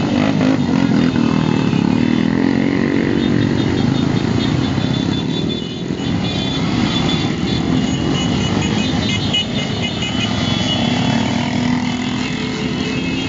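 Many motorcycle engines running together, their pitch rising and falling as bikes rev and ride past.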